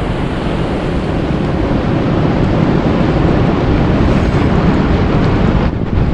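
Steady, dense rushing ambience of natural sound, heaviest in the low end, with a brief dip a little before the end.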